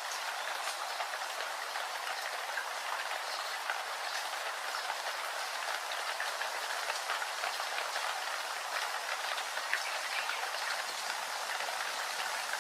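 Steady rain falling, with many small drop ticks over a constant hiss.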